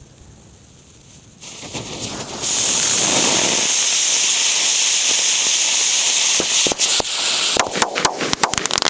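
Fireworks packed into a gingerbread house going off: about a second and a half in, a hiss starts and builds into a loud, steady hiss of burning fireworks. Around seven seconds in, sharp cracks and pops begin and come faster and faster toward the end.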